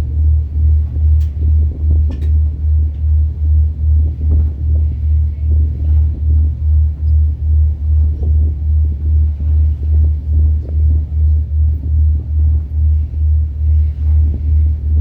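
Ferry engine rumbling deep and steady on board, with an even throb of about three pulses a second.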